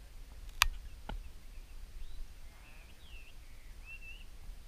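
Birds calling in short chirps that glide up and down, between about two and four seconds in, over a low rumble. Two sharp clicks come before them, about half a second and a second in, and the first click is the loudest sound.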